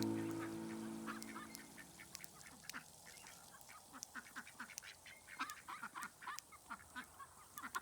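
Domestic ducks quacking and chattering in a string of short, faint calls, several a second. Guitar music fades out in the first second or so.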